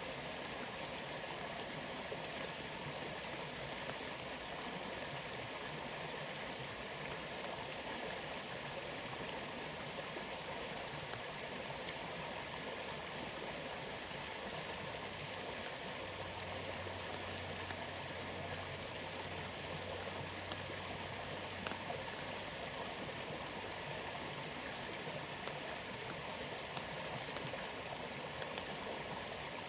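Waterfall and flowing water making a steady, even rush, with one brief sharp tick a little past the middle.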